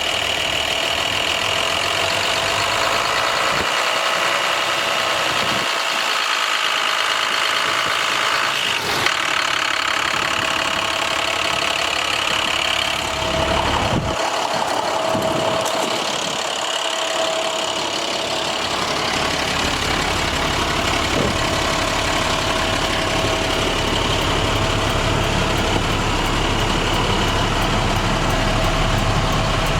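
Diesel engine of an International 4400 truck, the MaxxForce DT, idling steadily with a steady whine over it. The low rumble grows fuller over the last several seconds.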